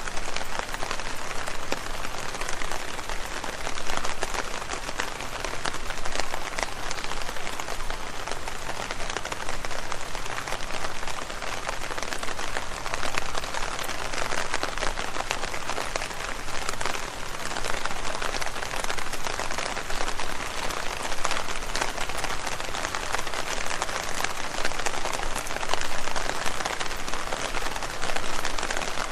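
Steady rain falling on leaves: a dense patter of many small drop ticks over an even hiss.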